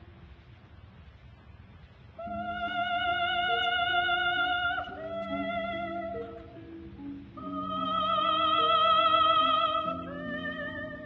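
Operatic singing over an instrumental accompaniment: a high voice holds long notes with vibrato while lower notes move in steps beneath. The music comes in about two seconds in after a quiet stretch.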